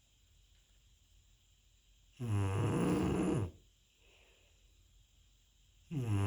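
Dog snoring in sleep: a long, pitched snore of about a second and a half, then a quiet breath, then the next snore starting near the end, about four seconds after the first.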